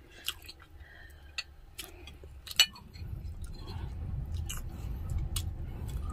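Close-miked chewing of soft braised pork sparerib meat, with scattered wet mouth clicks and lip smacks. A low rumble builds in from about three seconds in.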